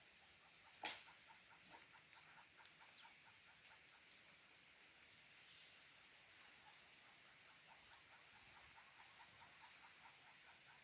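Faint rainforest ambience: a steady high-pitched insect drone with small chirps, and runs of soft ticks at about five a second. A single sharp knock sounds about a second in.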